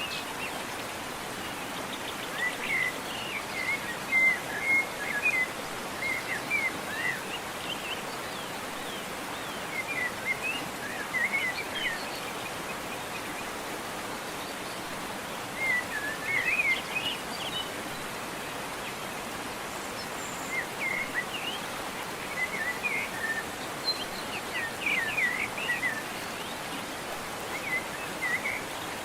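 Steady rush of a waterfall, with small birds singing short chirping phrases over it every few seconds.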